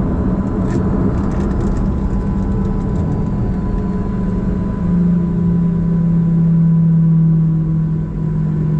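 Boeing 737-700's jet engines idling with a steady low hum, rising a little about five seconds in and easing off near the end.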